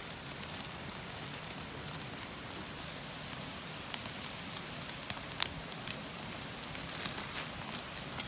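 Wood campfire burning with a steady crackling hiss and scattered sharp pops.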